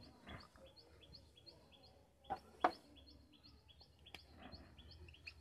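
A small bird chirping faintly and steadily, short high notes about three times a second. Over it, a board is being wiped clean, with two soft knocks a little over two seconds in and a sharp click just after four seconds.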